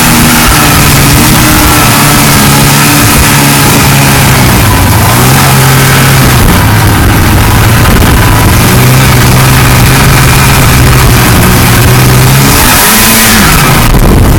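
Loud two-stroke engine of a 1979 Ski-Doo Blizzard 5500 snowmobile running under way, its pitch holding steady with short dips as the throttle eases about five and thirteen seconds in, under a constant hiss.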